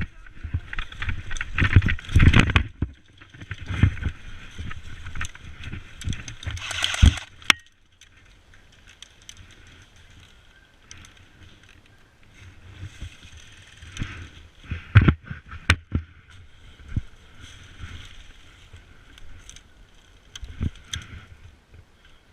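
Handling and movement noise on a body-worn action camera: rustling, scuffing and short knocks, dense for the first seven seconds or so, then quieter with a few isolated knocks.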